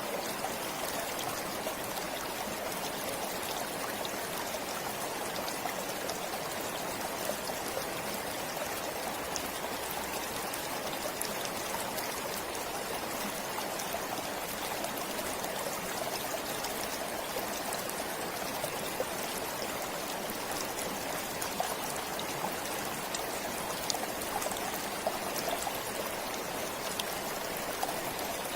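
Forest stream flowing steadily, a continuous rush of water with small trickling splashes.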